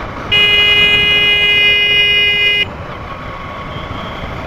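A vehicle horn sounds in one steady blast of a little over two seconds, over the constant wind and road rush of a motorcycle ride.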